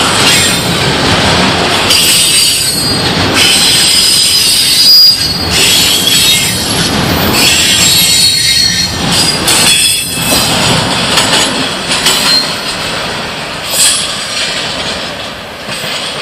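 Double-stack intermodal freight train rolling past close by, its steel wheels squealing against the rail with some clacking over rail joints. The sound tapers off near the end as the last cars pass.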